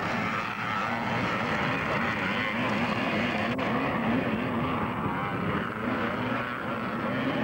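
Twinshock-era 250cc two-stroke motocross bikes racing, their engine notes rising and falling as the riders work the throttle.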